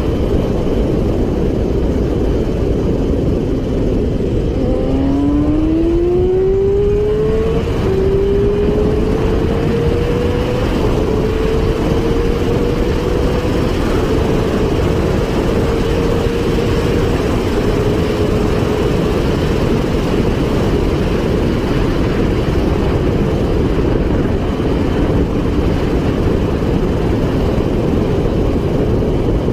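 Motorcycle engine accelerating about 5 s in, its pitch rising and stepping up through gear changes near 8 and 10 seconds, then holding steady and fading by about 19 s. Under it is a loud, steady rush of wind noise at speed.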